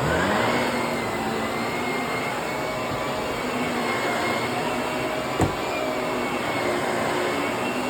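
Vacuum cleaner motor spinning up at the start, its whine rising in pitch and then holding steady as it runs, with one short knock about five and a half seconds in.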